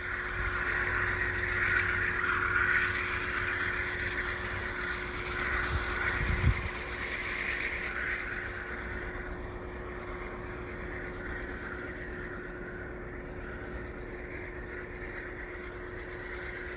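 Via Rail passenger train with a GE P42DC diesel locomotive pulling away, a steady engine tone over rolling noise that swells early and then slowly fades as it leaves. There is a brief low thump about six and a half seconds in.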